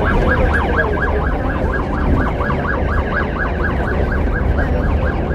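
Emergency vehicle siren in a fast yelp, rising and falling about four times a second and fading out near the end, over the steady low rumble of a moving bus's engine.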